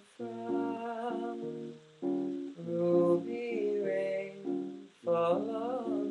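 Plucked acoustic string instrument playing a jazzy major-seventh chord progression, with a wordless vocal melody sung over it in three short phrases.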